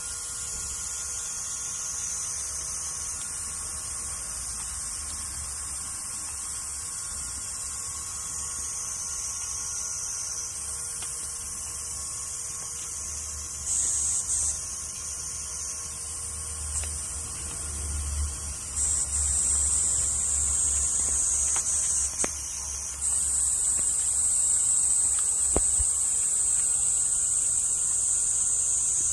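Cicadas droning in a steady high-pitched buzz that swells louder in steps in the second half, over a low rumble, with a few sharp crackles from the garden bonfire.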